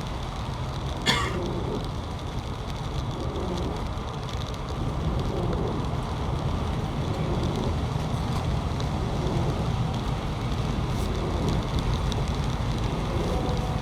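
Steady low rumbling noise with one brief, sharp clack about a second in.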